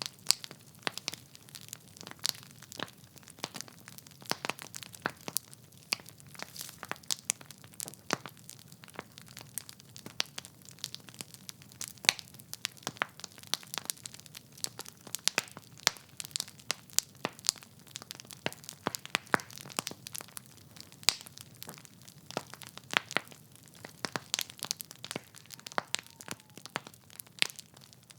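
Wood fire burning in a fireplace, logs crackling and popping in a dense irregular run of sharp snaps over a faint low hiss of flame.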